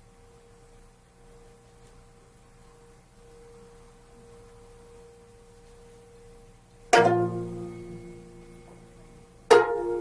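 Gayageum, the Korean plucked zither, sounding two single strong plucks after several seconds of low room tone. The first comes about seven seconds in and the second about two and a half seconds later, each ringing out and dying away, as the opening notes of a solo piece.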